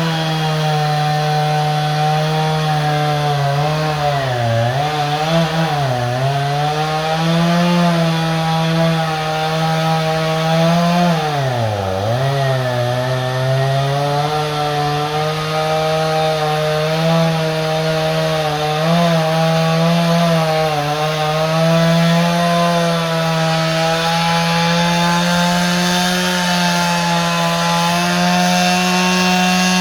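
Chainsaw running at high revs as it cuts into a dead tree, held steady through the cut. Its pitch sags a few times, around four to six seconds in and again at about twelve seconds, as the chain bogs in the wood, then picks back up.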